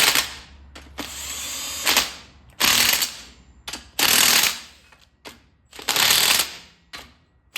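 Impact wrench fired in short bursts, several in a row, tightening the carrier bearing cap bolts on a Sterling 10.5 rear axle.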